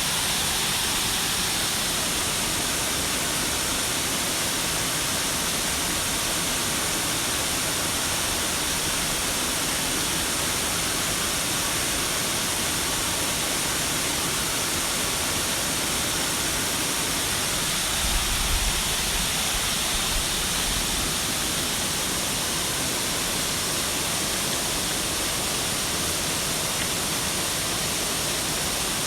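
Waterfall: a steady, unbroken rush of falling water. A brief low rumble comes through about eighteen seconds in.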